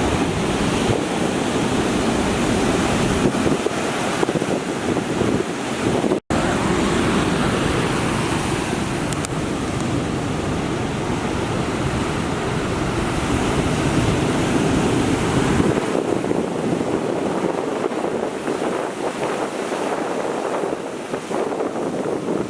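Heavy storm surf breaking and washing up the shore under strong typhoon wind, with wind buffeting the microphone. The sound cuts out for an instant about six seconds in, and the low wind rumble eases after about sixteen seconds.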